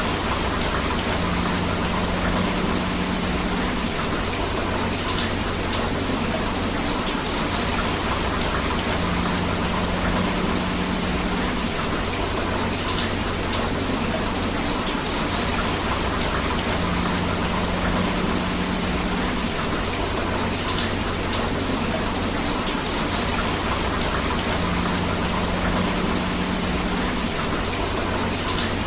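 Steady rain and rushing river water, a dense even wash with faint drop ticks. Under it runs a low hum, with a low tone swelling for a couple of seconds about every eight seconds.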